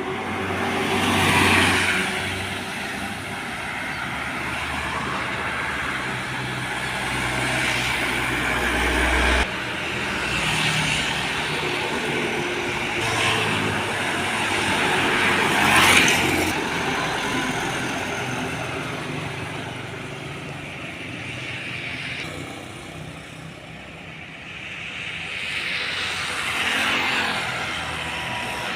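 Road traffic: several vehicles, trucks among them, pass one after another, each one's engine and tyre noise swelling and fading away; a deep engine rumble builds just before an abrupt cut about nine seconds in.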